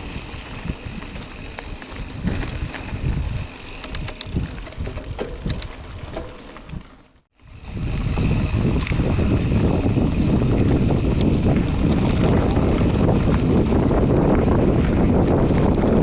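Mountain bike rolling over a rough dirt trail, with uneven tyre rumble and small rattles and clicks from the bike. About seven seconds in the sound cuts out briefly, then gives way to a steady heavy rush of wind on the microphone as the bike rides on at speed.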